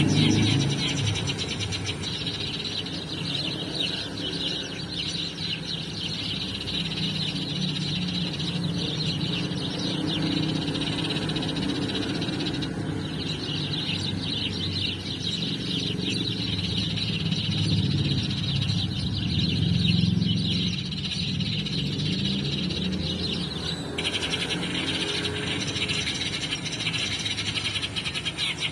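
Eurasian tree sparrow chirping, rapid and continuous, the lure call played from an MP3 to draw wild sparrows in. The chirping changes pattern briefly about 13 seconds in and again about 24 seconds in, over a low steady background rumble.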